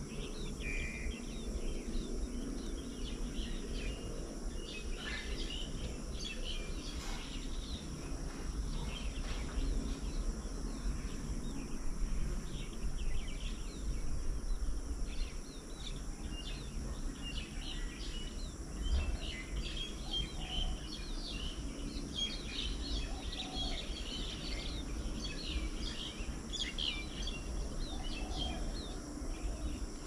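Small birds chirping and calling in many short notes, busiest in the second half, over a steady low rumble and a steady high hiss.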